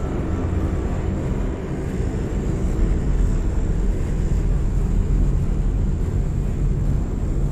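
Steady drone of an airplane's engines in flight, heard from inside the cabin, with a faint thin high whine above it.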